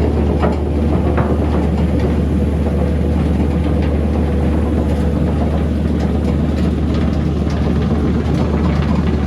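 Oska OKRR 400 x 120 wood chipper running steadily with a deep, even hum, and scattered light ticks and cracks over it.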